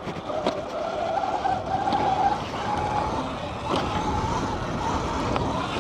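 Sur-Ron electric dirt bike riding on a dirt track: the motor and chain drive whine, the pitch rising and falling with the throttle, over the rumble of rough ground, with a few sharp knocks from bumps.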